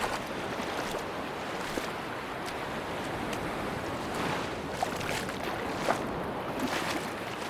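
Sea waves washing on a beach: a steady rushing hiss, with small scattered crackles.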